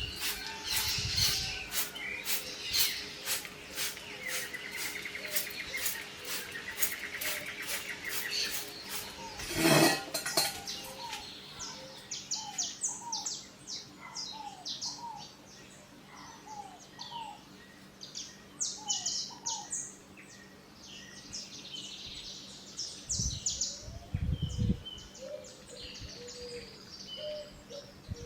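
Birds chirping and calling with many short, quick notes, some of them gliding down in pitch. A rapid series of sharp clicks runs through the first several seconds, and a single loud knock comes about ten seconds in.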